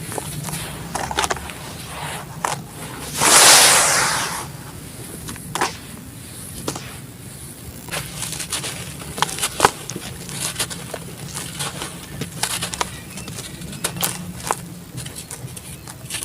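Crumbling sand-cement chunks being broken into water: scattered sharp crackles and crunches, with one louder rushing crumble lasting about a second, about three seconds in.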